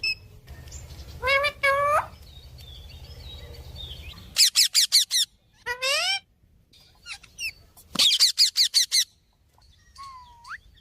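Pet parrot vocalizing in bursts. Two rising calls come about a second in, then a quick run of five short repeated notes, a rising call, another run of about six short notes, and a single rising whistle near the end.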